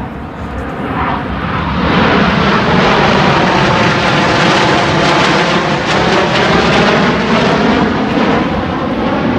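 Roar of a Blue Angels F/A-18 jet making a pass over the field, building about a second in, loudest through the middle and easing slightly near the end.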